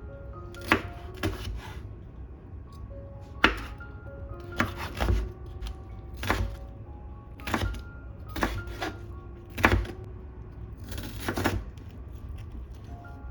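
Irregular sharp knocks and clatter of kitchen work, about one a second with a short cluster near the end, over soft background music with light mallet-like notes.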